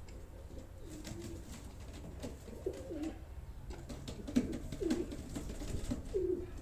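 Domestic pigeons cooing in a loft, several short low calls one after another, with a steady low hum and a few sharp clicks underneath.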